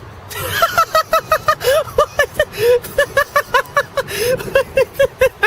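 Geese honking in a rapid run of short calls, several a second.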